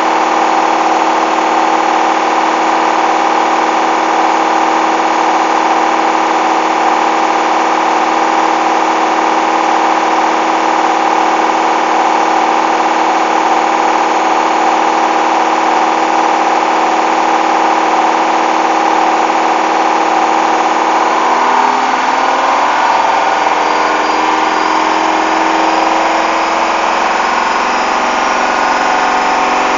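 Hoover washing machine on its final spin with an unbalanced load, the motor and drum giving a loud, steady whine. About 21 seconds in, the pitch starts to waver and shift as the spin speed changes.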